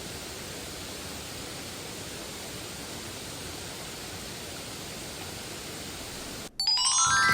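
Steady, even rushing noise with no separate sounds in it. About six and a half seconds in, it cuts off briefly and a music sting begins: a quick run of rising, bell-like chime notes.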